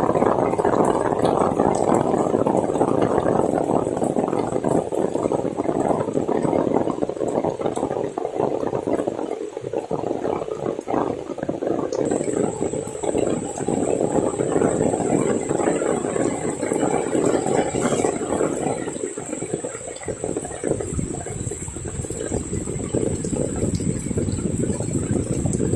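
Heavy rain with water pouring and splashing, a steady rushing hiss that dips briefly about ten and twenty seconds in.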